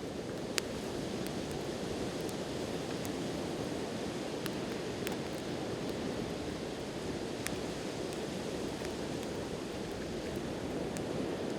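Steady wash of sea waves on the shore, with a wood fire crackling: scattered sharp pops, the loudest about half a second in and others every few seconds.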